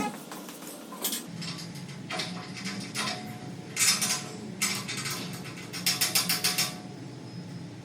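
Hard parts clattering and clicking as they are handled, in a few separate bursts with a quick run of rapid clicks near the end. A low steady hum comes in about a second in.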